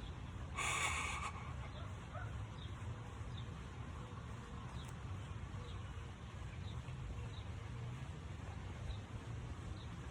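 A person jogging in place, breathing out sharply once about half a second in, over a faint steady low rumble.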